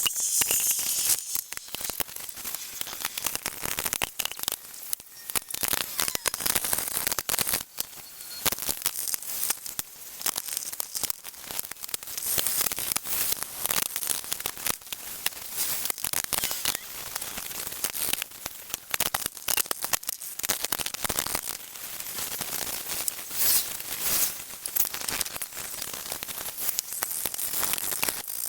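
Brush scrubbing chemical paint stripper off a metal monkey wrench: a continuous, irregular scratching of quick strokes.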